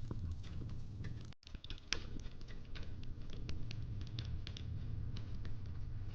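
Fireplace crackling: irregular sharp pops and snaps over a low steady rumble, with a brief break about a second and a half in.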